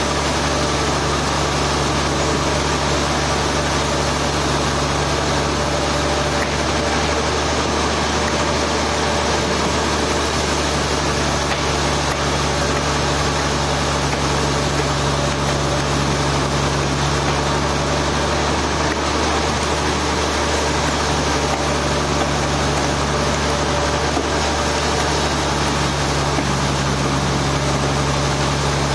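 Sawmill engine running steadily, with an even, unbroken mechanical noise and a low hum.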